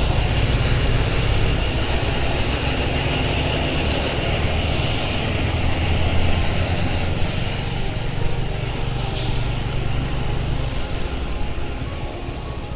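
Motorcycle engine running steadily, fading out about eleven seconds in, with a single sharp click a little after nine seconds.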